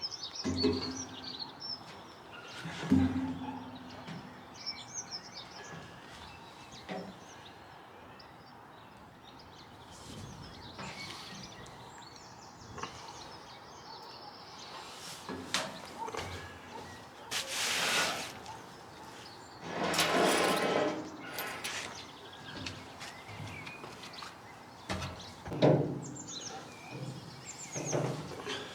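Occasional knocks and clunks, and a couple of longer scraping sounds about two-thirds of the way through, from metal parts being handled while fitting a narrowboat's stern gear. Birds chirp throughout.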